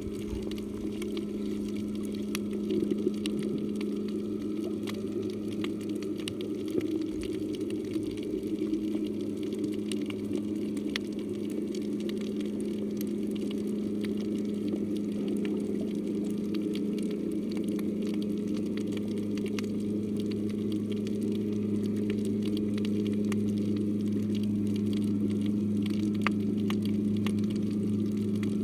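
Underwater reef ambience: a steady low hum runs throughout, under a constant scatter of fine crackling clicks.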